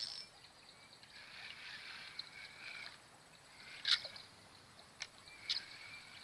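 A few short, sharp splashes from a hooked tilapia being brought in at the water's surface: one about four seconds in and two more near the end, over faint high chirring of insects.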